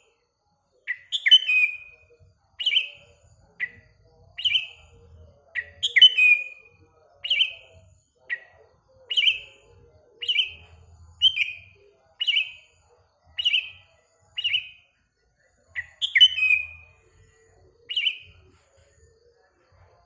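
Sooty-headed bulbul (kutilang) giving short, sharp call notes over and over, about one a second, each a quick downward slur.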